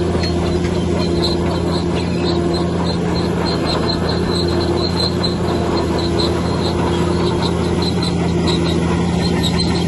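Bulldozer's heavy diesel engine running steadily under load, with a string of short high-pitched squeaks about two or three times a second.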